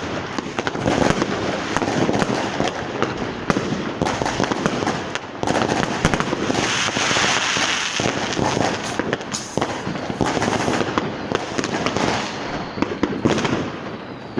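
Fireworks and firecrackers going off without a break: many sharp bangs and cracks at irregular intervals, close and far, overlapping. About six to eight seconds in there is a stretch of hissing crackle.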